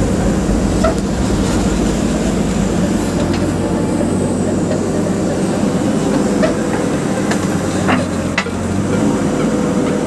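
JCB earthmoving machine's diesel engine running steadily, with a few sharp metallic knocks.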